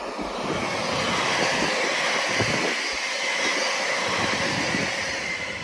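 Electric multiple unit passing close by at speed: a steady rush of wheels on rail and train noise that builds over the first second and holds, easing slightly near the end.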